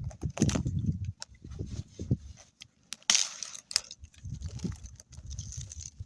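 Irregular handling noises: sharp clicks and knocks with short crunching bursts, and a brief scraping hiss about three seconds in.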